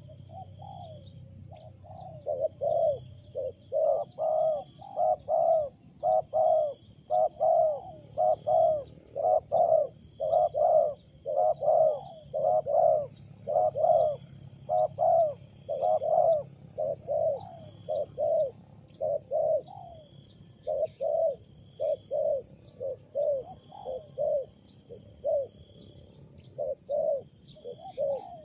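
Spotted dove cooing in a long, fast run of short, deep coos, about two a second, strongest in the middle. Faint high chirps of other birds and a steady high tone sound behind it.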